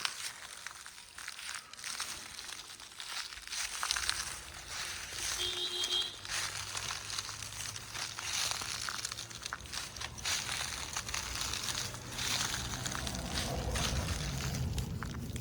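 Irregular crunching and crackling rustles, like movement through dry leaf litter, with a brief faint tone about five and a half seconds in.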